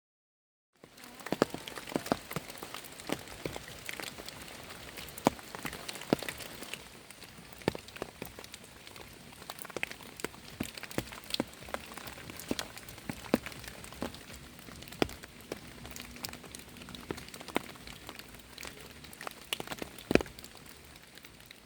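Rain falling: a steady hiss with many irregular sharp drops striking a surface.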